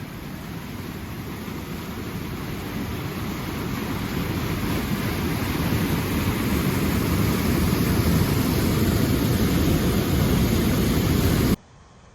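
Rushing of a river swollen with floodwater after heavy rain: a steady low roar of water that grows louder, then cuts off abruptly near the end.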